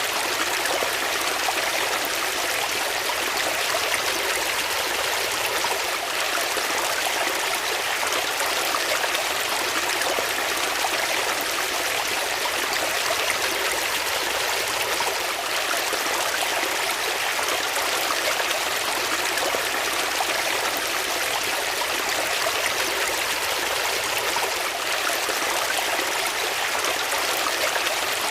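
Water flowing steadily in a stream, a constant even rush with light trickling.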